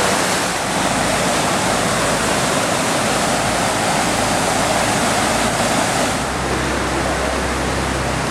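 Overflowing creek floodwater rushing steadily. A low steady hum comes in about six seconds in.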